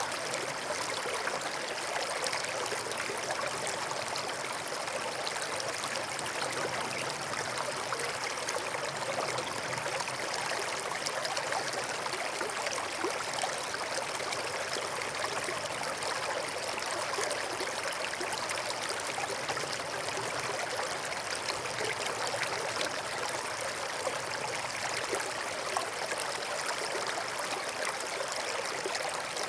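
Forest stream flowing steadily, water trickling and burbling over rocks.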